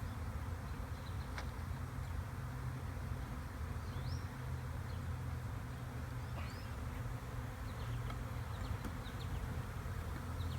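Honeybee swarm buzzing in a steady low drone, with a few faint high chirps over it.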